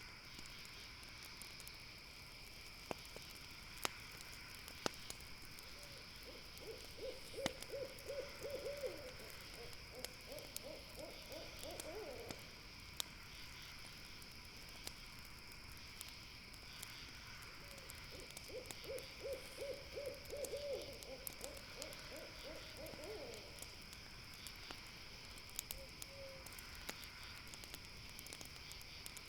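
An owl hooting in two long runs of rapid notes, each rising in pitch at its end: one about six seconds in, the other about eighteen seconds in. Underneath are a steady high insect trill and a few sharp campfire crackles and pops.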